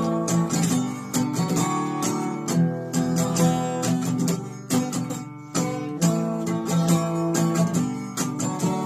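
Belucci 3810 acoustic guitar strummed in a steady rhythm of chords, with no voice yet.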